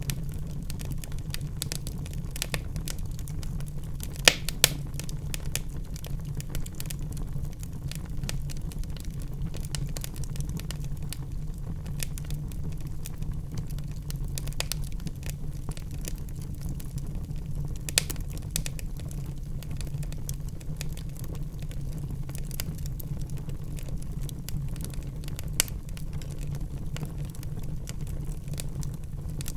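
Wood fire in a fireplace crackling: a steady low rumble with scattered small clicks and a few sharper pops, two of them close together about four seconds in.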